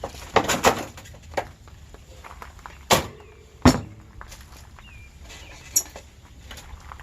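Irregular knocks and clanks of metal parts being handled while air conditioners are dismantled for scrap, the loudest about three and a half seconds in with a short metallic ring after it.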